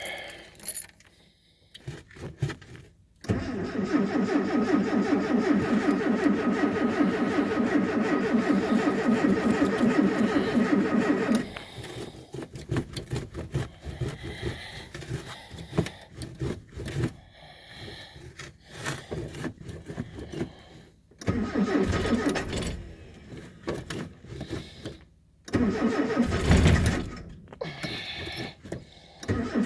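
Engine cranking on its starter during a cold start: one long crank of about eight seconds, then two shorter cranks later on.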